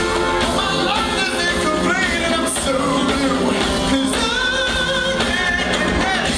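Male vocal group singing a pop-soul song in harmony, backed by a band with a steady beat.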